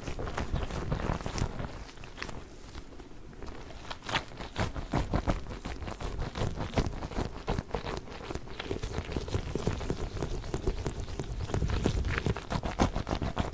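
Hands working a giant Orbeez water-bead ball, a dense run of quick sticky clicks and squishes.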